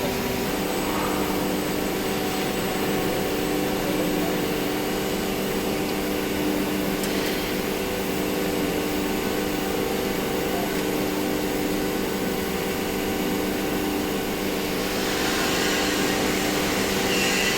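Hydraulic wheel press's electric motor and pump running with a steady hum. A hiss joins it about fifteen seconds in.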